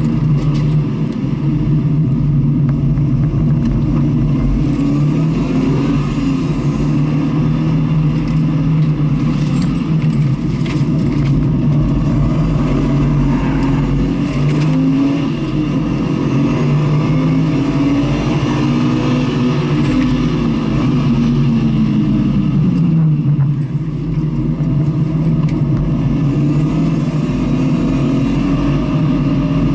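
Car engine heard on board during a circuit lap, revving up and down through the gears, loud and continuous. Its pitch climbs repeatedly and drops sharply, with a long fall a little over twenty seconds in as the car slows.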